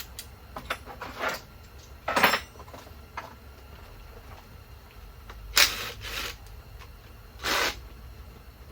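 Hand tools being handled: about five short metallic scrapes and rubs with a few light clicks between them, as a Torx bit and ratchet are fitted and set to a bolt.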